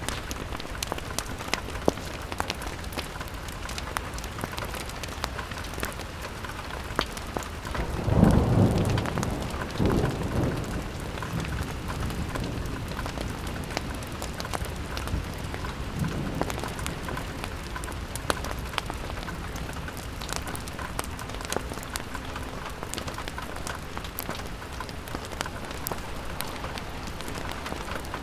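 Steady rain falling on a window, with scattered sharp drop ticks. Low rumbles rise about eight seconds in and again about ten seconds in, with a weaker one near sixteen seconds.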